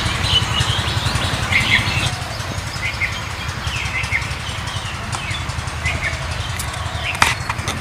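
Small birds chirping now and then over a steady low rumble, with a sharp click near the end.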